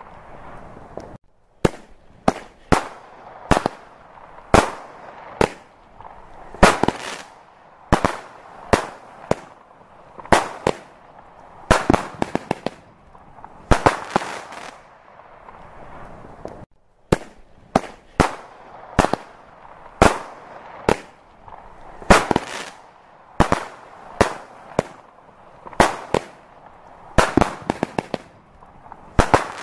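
Fireworks display: aerial shells going off in a continuous irregular run of sharp bangs, about one or two a second, some coming in quick clusters, with fainter noise between the bangs.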